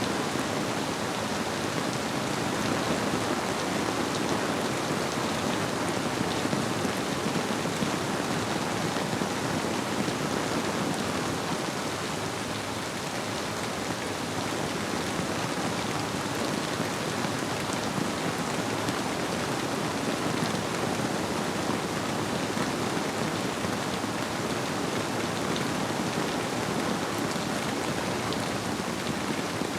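Steady rainfall, a dense even patter, blended with the flow of a river. It holds constant, with no thunder or other distinct events.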